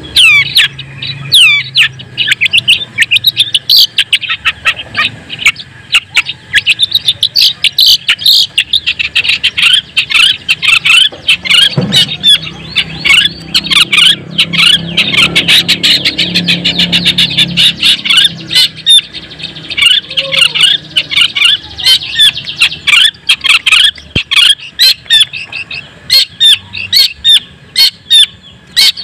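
Long-tailed shrike (cendet) singing without pause: a fast, dense chatter of sharp chirps, with here and there a note that sweeps down in pitch.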